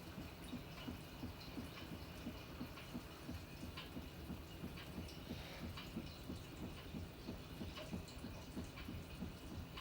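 Panasonic NA-FA100H9 top-loading washing machine mid-cycle: water sloshing and dripping in the tub, with a steady rhythmic pulse about three times a second.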